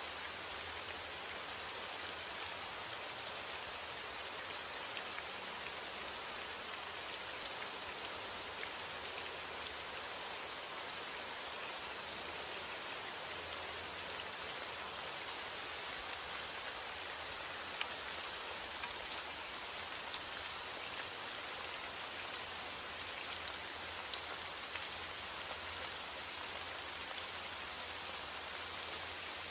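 Steady heavy rain, with individual drops ticking sharply on a surface through the steady hiss.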